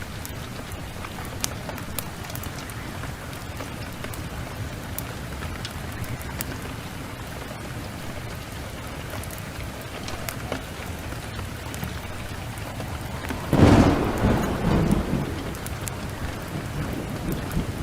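Steady rain falling, with a low roll of thunder about thirteen seconds in that swells loudest and fades over about two seconds.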